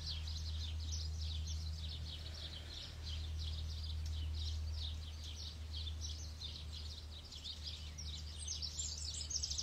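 Many small birds chirping continuously in quick, irregular calls, over a steady low rumble.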